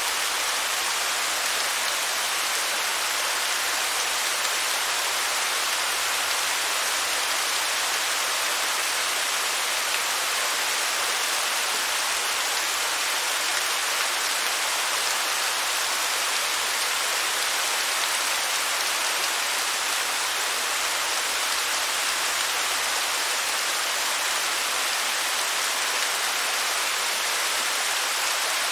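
Waterfall: falling water splashing in a steady, unbroken rush, mostly high hiss with little low rumble.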